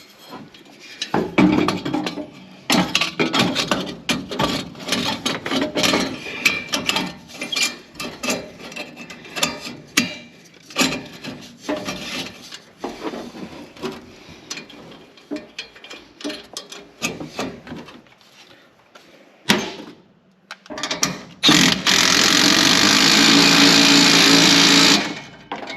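Hand tools clicking and metal parts knocking as exhaust parts are fitted to a truck's turbocharger. Near the end, a power tool runs steadily for about three and a half seconds and then stops.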